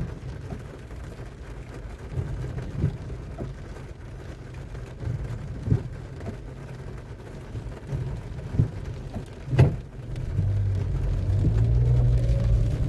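Low rumble of a car heard from inside the cabin in the rain, with scattered knocks and one sharp click a little before the ten-second mark. In the last few seconds the engine hum becomes steadier and louder.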